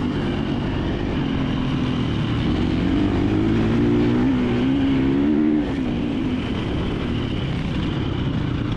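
KTM 350XC-F dirt bike's single-cylinder four-stroke engine running at low revs through slow off-road going, its pitch wavering with the throttle. It builds a little about three and a half seconds in and drops off suddenly a couple of seconds later. The rider himself says he is lugging the bike, in too high a gear.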